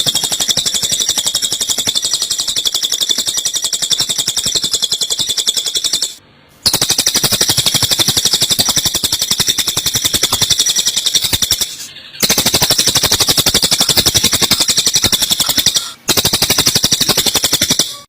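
Rapid, high-pitched chattering of small songbirds, Eurasian tree sparrows' fighting calls mixed with cililin song, a fast rattling stream broken by short gaps about 6, 12 and 16 seconds in.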